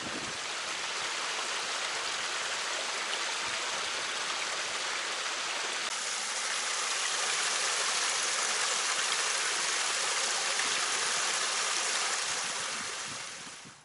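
Steady rushing of flowing water, like a stream, fading out near the end.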